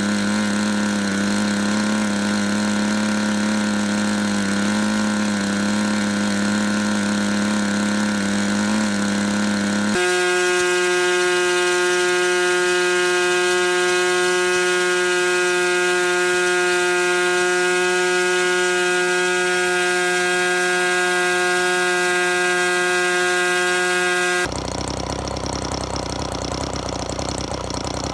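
O.S. .61 SX-H glow-fuel two-stroke model helicopter engine running on a test run: a steady buzz for about ten seconds, then abruptly a higher, steady pitch. The engine sound cuts off suddenly about 24 seconds in, leaving a steady noise.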